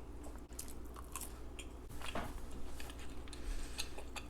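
A person chewing fast food close to the microphone with the mouth open: irregular wet smacking clicks and soft crunches.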